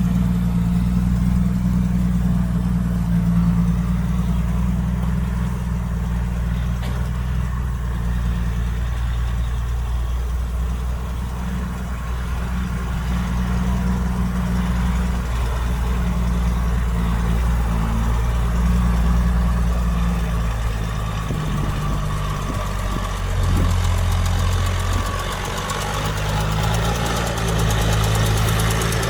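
Diesel engine of heavy earthmoving equipment running steadily with a deep hum, its note shifting up and down a few times in the second half.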